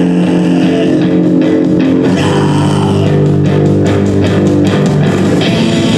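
Loud live band music, dominated by sustained distorted electric guitar over bass.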